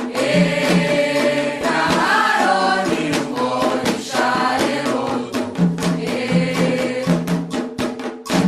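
Group singing a Yoruba-language Candomblé chant for the orixás, accompanied by drums beating a steady rhythm.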